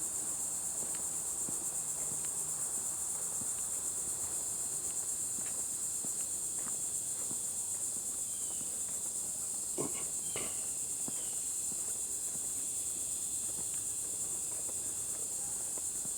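Steady, high-pitched chorus of insects shrilling without a break, with a couple of brief clicks about ten seconds in.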